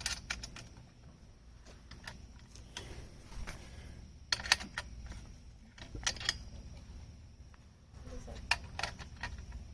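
Scattered metal clicks and clinks in small clusters as the bolts and fittings of an aluminum chainsaw mill are tightened by hand.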